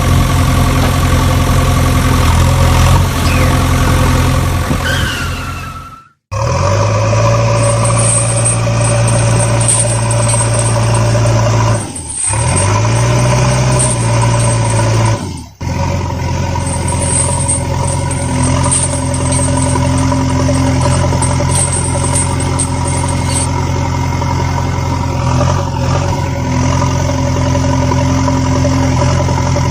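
Vehicle engine idling steadily, cut off abruptly about six seconds in and again briefly twice around twelve and fifteen seconds.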